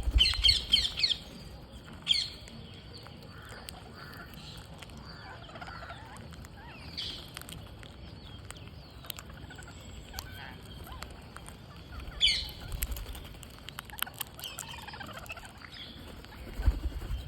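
Green parrots giving short bursts of harsh, rapid screeching calls, loudest at the start and again about twelve seconds in, with quieter calls in between.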